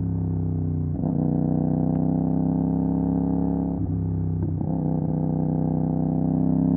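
CFMOTO 450 SR's parallel-twin engine through an MSH G6 full-system exhaust, under way and pulling with its note slowly rising. The note has short breaks about a second in and again near four and four-and-a-half seconds in, as gears are changed.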